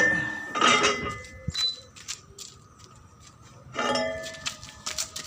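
Metal clanking and clinking with a ringing tail: one strike about a second in and two more near the end, with light ticks in between.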